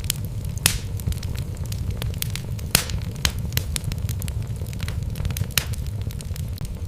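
Wood fire burning in a fireplace: a steady low rumble of flame with irregular crackles and sharp pops of the logs, the loudest pops about two thirds of a second and nearly three seconds in.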